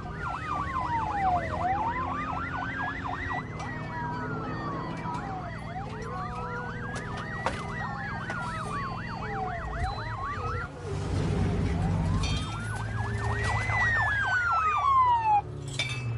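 Police car siren sounding: a slow wail rising and falling about every four seconds together with a fast yelping pattern, over the low drone of a car engine. The slow wail drops out for a couple of seconds about two-thirds of the way through, then returns.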